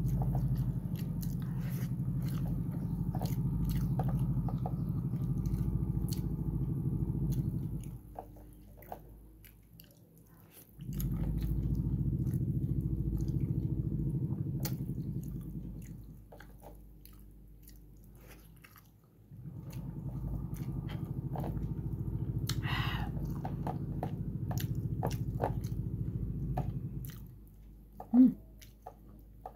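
Close-up chewing of boiled pork and rice in three long bouts of several seconds each, with quieter pauses between them. Small clicks of fingers handling the food are scattered throughout, and a short loud sound comes near the end.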